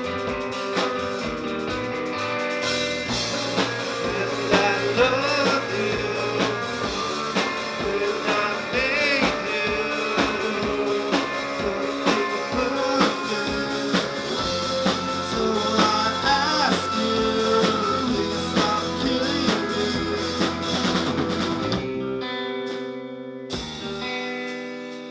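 Live band playing an instrumental passage: a lead guitar line with bent, wavering notes over bass and drum kit. About 22 seconds in the drums stop and held chords ring on, with a couple of single hits near the end.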